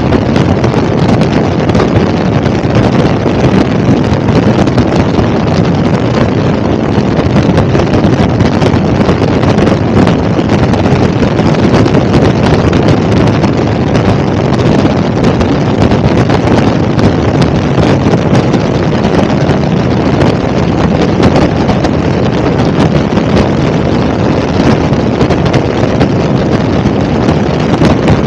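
Helicopter in flight: a loud, steady drone of rotor and engine noise, with wind buffeting the microphone.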